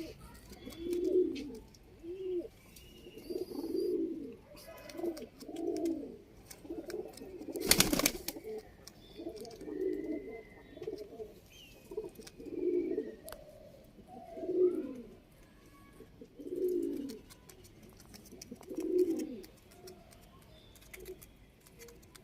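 Domestic pigeons cooing over and over, a low coo roughly every two seconds, with faint higher chirps. A sharp knock about eight seconds in.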